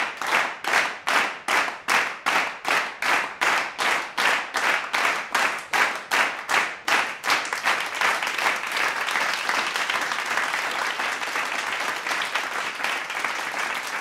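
Crowd clapping in unison in a steady rhythm, about three claps a second, then breaking into continuous applause about seven and a half seconds in.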